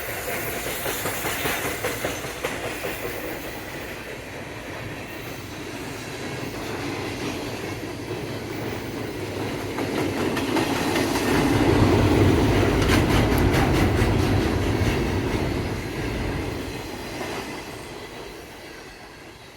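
Train passing close by on the rails, its wheels clicking over the rail joints. It is loudest about two-thirds of the way through, then fades away near the end.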